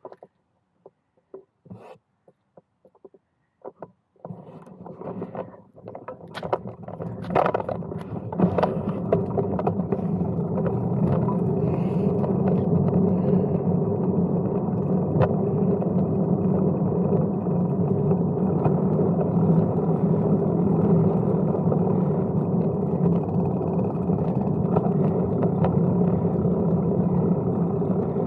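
Brompton folding bike getting under way after a few clicks and knocks, then rolling steadily along the track with continuous tyre and wind noise.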